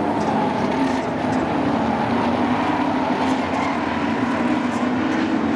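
Engines of a field of sport race trucks running at speed around a short oval track, a steady unbroken engine sound with no single pass standing out.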